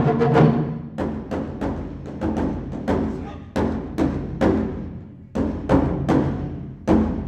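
Japanese taiko drums struck in a rhythmic pattern: a run of sharp, loud drum hits, each ringing out and dying away before the next, at an uneven pace of about two a second.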